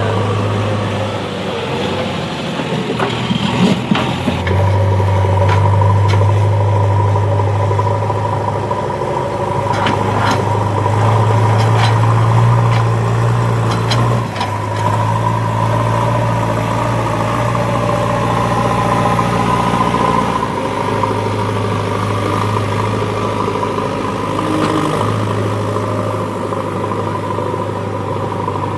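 Heavy vehicle's engine running steadily, its low note shifting a few times, with scattered sharp clicks or knocks.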